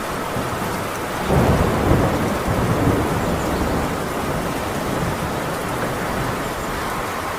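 Heavy rain falling steadily on a tin roof, with a low roll of thunder that starts about a second in and rumbles away over the next few seconds.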